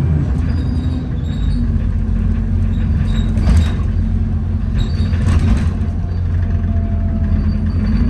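Inside an Alexander Dennis Enviro400 double-decker bus on the move: a steady low drone from the engine and drivetrain with a held whine over it, and brief hissing rushes about three and a half and five seconds in.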